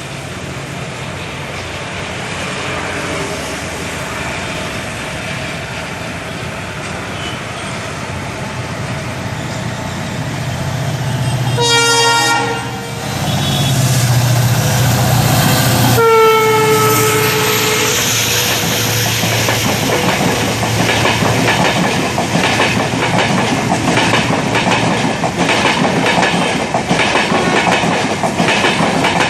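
Express trains passing at speed, with a low locomotive drone building over the first half. A locomotive horn sounds in a short blast about twelve seconds in and again, longer, about four seconds later. Coaches then clatter past, with the wheels beating in a steady rhythm over the rail joints.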